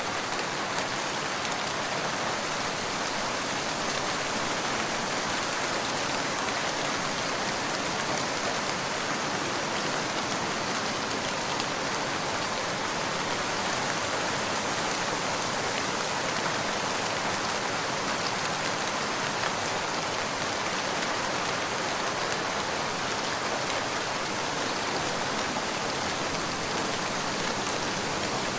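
Steady rain falling, with faint scattered drop ticks among the even patter.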